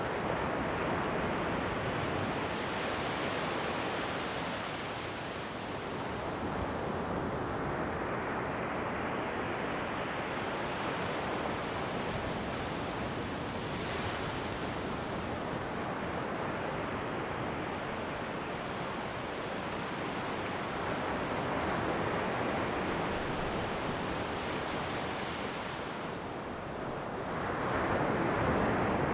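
Ocean waves washing onto a shore: a continuous rush of surf that swells and ebbs slowly every several seconds, loudest near the end.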